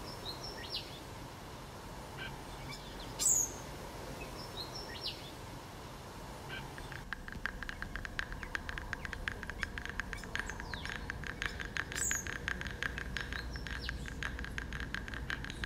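Birds calling outdoors: sharp, high chirps that fall in pitch every few seconds. From about halfway in, a fast, even run of clicking pulses joins them.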